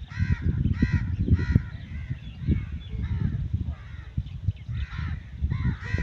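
A bird calling repeatedly in short, arched calls, about one or two a second, over uneven low rumbling noise.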